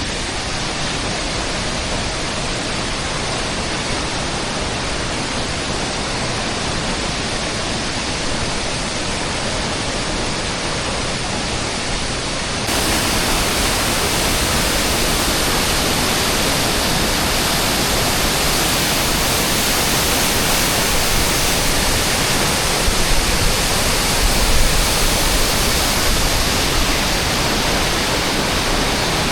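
Steady rush of falling water from a waterfall. About 13 seconds in it jumps abruptly louder and brighter, then stays even.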